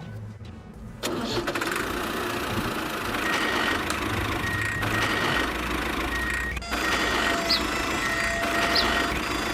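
A motor starts up suddenly about a second in and runs steadily, with a brief break just past the middle.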